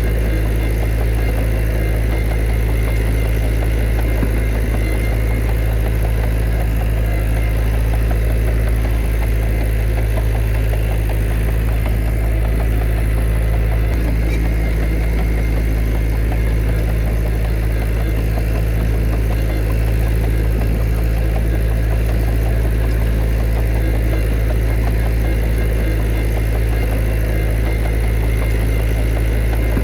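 Heavy diesel engine of earthmoving machinery running steadily at a constant speed, a deep even sound with no revving.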